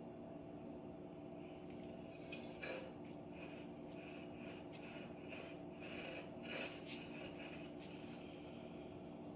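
A run of short scraping or rubbing strokes, about two to three a second, from about two seconds in to near the end, over a steady low hum.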